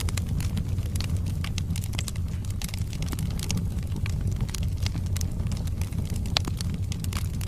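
Wood fire crackling, with irregular sharp pops and snaps from the burning logs over a steady low rumble; one pop about six seconds in is sharper than the rest.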